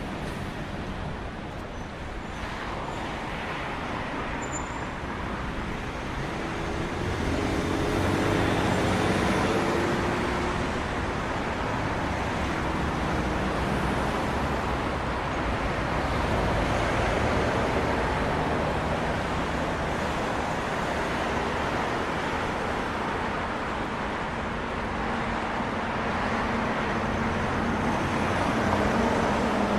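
Road traffic noise heard from a moving bicycle: a steady rush with vehicles passing, one engine hum rising about a quarter of the way in and another near the end.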